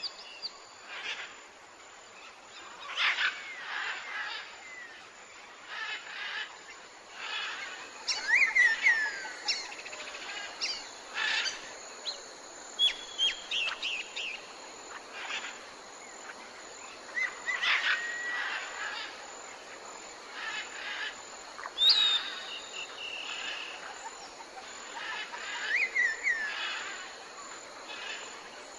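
Several wild birds calling outdoors: short chirps and whistled calls, some sliding down in pitch, coming every second or two over a steady background hiss.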